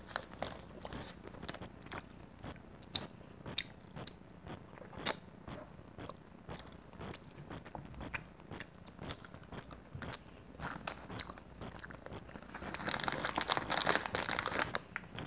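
Close-miked chewing of sweets, with scattered small clicks and crunches. Near the end a plastic candy packet crinkles for a couple of seconds as it is handled.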